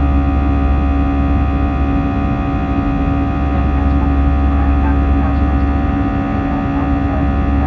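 Airbus A320neo jet engines running steadily, heard from inside the passenger cabin as a loud, unchanging drone with a deep hum and several steady tones, typical of the climb after takeoff.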